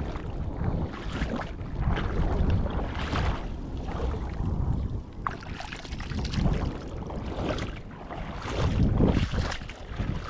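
Wind buffeting the microphone in gusts, a loud low rumble that swells and eases every second or two, with surf hiss beneath.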